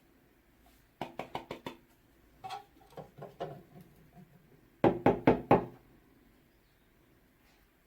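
A series of hard knocks: a quick run of about five, a few softer scattered ones, then four louder knocks in quick succession.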